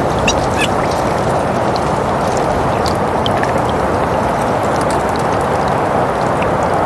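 Steady, even rushing of winter wind, with scattered small clicks and ticks throughout.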